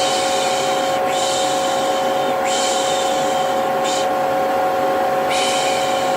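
Vacuum cleaner running steadily with a droning whine, overlaid with repeated soft 'shh' shushing of the kind used to calm a baby, about five long shushes with short gaps between them.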